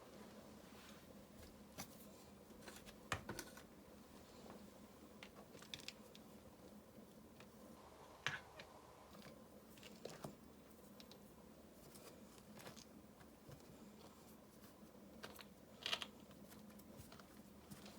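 Near silence with scattered faint clicks and scrapes from river rocks and tools being handled while the rock is set in mortar. There are a few sharper knocks, about three, eight, ten and sixteen seconds in.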